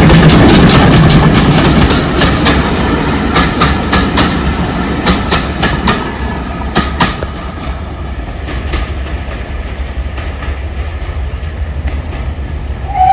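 Heritage railway train passing close by, its wheels clicking rhythmically over the rail joints with a low rumble. The clicks thin out about six to seven seconds in and the sound falls away to a quieter rumble as the train recedes.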